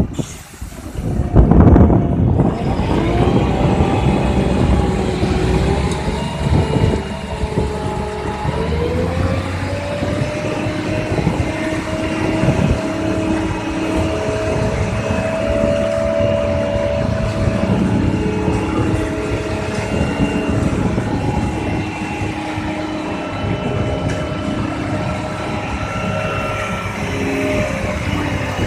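Diesel engine of a Nissan UD Trucks CWE 280 concrete mixer truck running while the truck unloads concrete. The revs climb about eight seconds in and then hold steady. A brief loud noise comes near the start.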